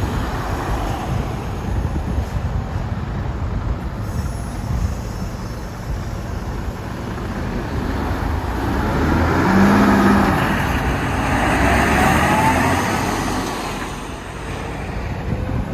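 Heavy truck driving past, engine and tyre noise building to its loudest about ten seconds in, with a short steady tone and a faint rising whine as it passes.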